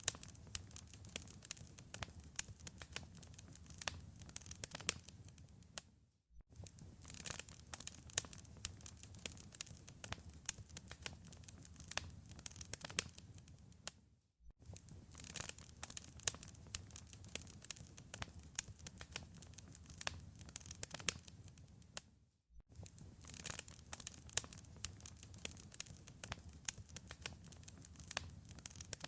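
Wood fire in a fireplace crackling, with many sharp pops and snaps over a low rumble of flame. The sound drops out briefly about every eight seconds, three times, as a looped recording restarts.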